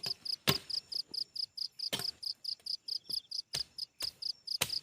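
An insect, such as a cricket, chirping in rapid, evenly spaced pulses of about five a second. Four sharp knocks come irregularly through it.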